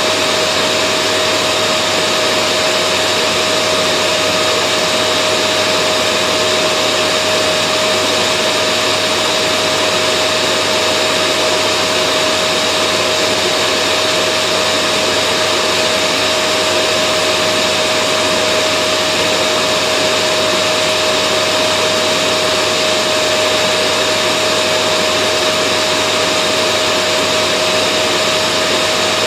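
Vacuum cleaner running steadily: a constant loud motor whir with a steady hum, unchanging throughout.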